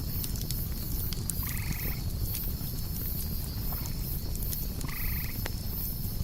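Campfire crackling with sharp pops over a low rumble, crickets chirping steadily in the background, and a short raspy animal call twice, about three and a half seconds apart.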